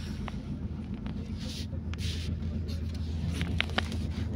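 Passenger train running at speed, heard from inside the coach: a steady low rumble with a few light clicks and rattles.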